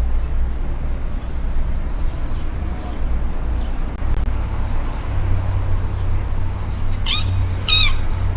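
A cat meowing twice near the end, two short pitched calls close together, with fainter cries earlier. A steady low rumble runs underneath.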